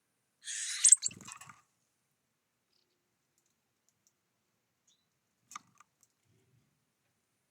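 Activity at a bird feeder: a short rustling burst of about a second with one sharp click in the middle, then two faint taps a few seconds later.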